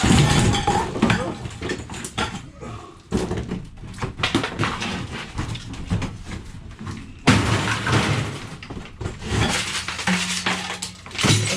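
Scrap light iron, including a heavy steel cooker, being dragged and dropped: sheet metal clattering, banging and scraping, loudest at the start, about three seconds in and about seven seconds in.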